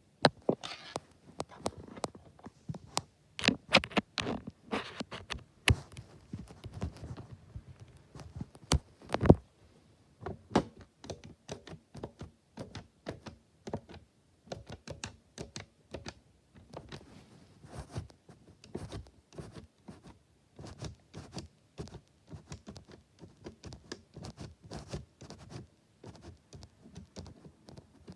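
A rapid, irregular run of small taps, clicks and knocks, as of objects being tapped and handled on a hard surface, with several louder knocks in the first ten seconds.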